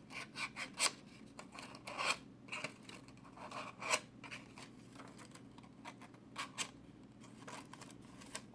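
Scissor blade drawn along a paper wing to curl it: a string of short, irregular scraping strokes.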